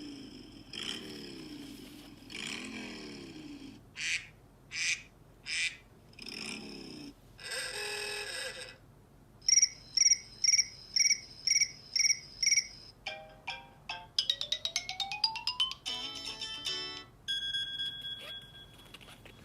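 A string of different electronic sound effects played one after another: repeated falling chirps, three short bursts, a buzz, about eight evenly spaced loud beeps, a rising glide and a held tone near the end.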